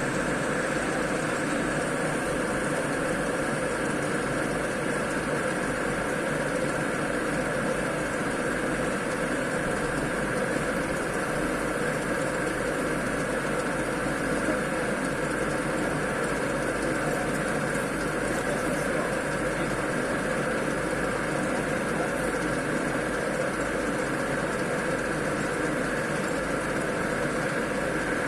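Double mixer machine running steadily on a test run, a constant motor and gearing hum with no change in speed.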